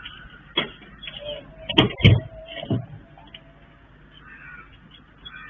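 Several sharp bangs over low road noise in muffled dashcam audio: one about half a second in, a loud pair just under two seconds in, and another near three seconds.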